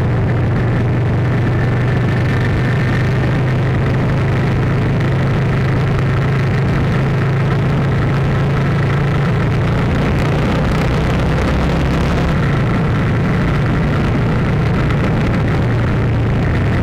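A loud, steady low engine drone, like a vehicle running, whose pitch shifts slightly about twelve seconds in.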